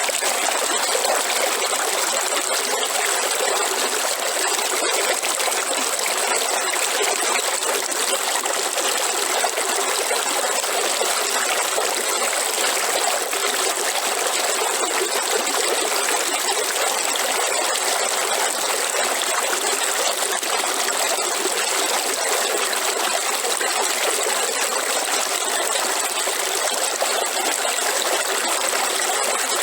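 River water flowing and rushing steadily, an even splashing noise with no breaks.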